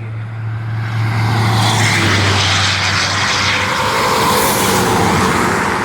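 A large road vehicle passing close by: engine and tyre noise swell over the first second, stay loud, then start to fade near the end.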